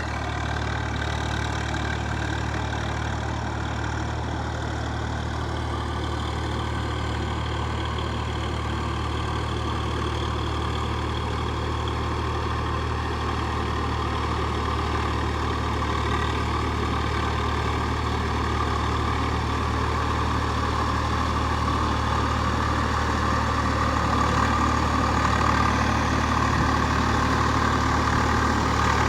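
Tractor engine running steadily, slowly getting louder toward the end.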